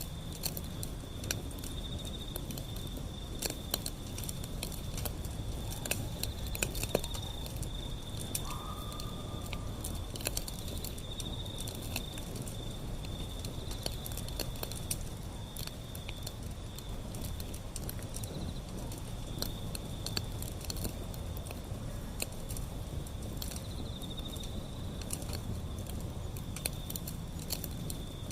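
Wood fire burning, with frequent sharp crackles and pops over a low rumble of flames. A steady, pulsing high-pitched trill runs alongside.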